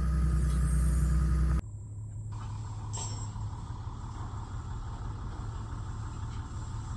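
Truck engine running with a loud low rumble, cut off suddenly about a second and a half in, then a quieter, steady engine hum.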